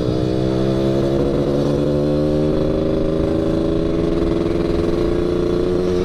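Yamaha RX King 135cc two-stroke single-cylinder motorcycle running under way through an aftermarket under-frame 'kolong' exhaust. Its pitch climbs slowly and evenly as it pulls, with a small shift about two and a half seconds in.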